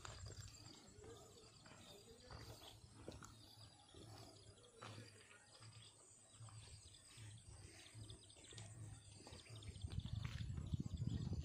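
Faint outdoor ambience: birds chirping and calling, over a low rumble that grows louder near the end.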